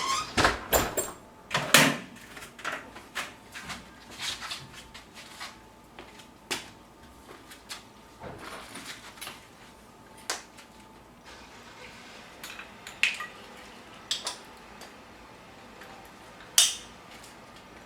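Irregular clicks, taps and light metallic clinks from hands working around a small metal stove, busiest in the first two seconds and then sparser.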